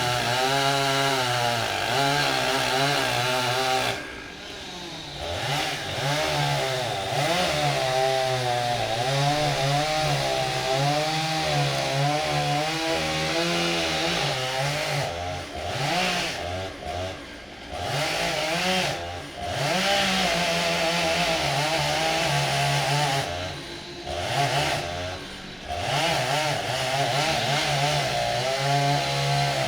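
Large chainsaw cutting through a thick maple trunk, its engine pitch wavering up and down as it bogs and recovers in the cut. It eases off and drops in level a few times, about 4 seconds in, around the middle and near 24 seconds, then goes back into the wood.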